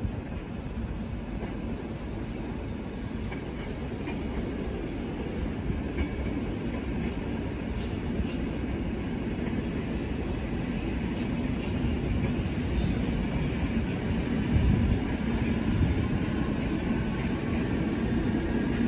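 Belgian SNCB passenger train rolling slowly through a station: a steady low rumble of wheels on rails that grows gradually louder.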